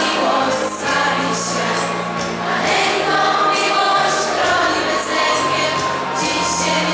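Choir singing a Polish Christmas carol (kolęda), with sustained low notes underneath.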